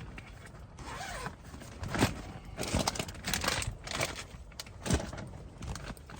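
Rummaging through camping gear: scattered clicks, light knocks and rustling as items are handled and moved about.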